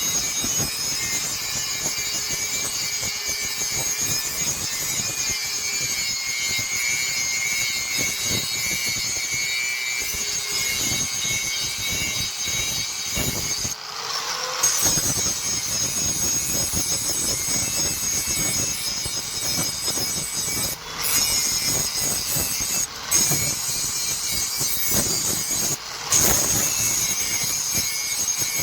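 Continuous rasping of steel being abraded as a kukri blade is shaped. The sound breaks off suddenly for a moment a few times.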